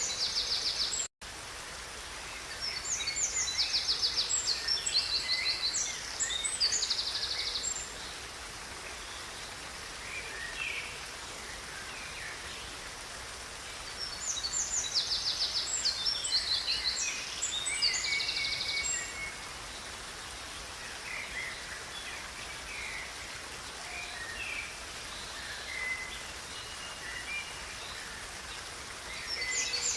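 Songbirds singing in bouts of rapid, high trilled phrases over the steady rush of a river. The sound cuts out completely for an instant about a second in.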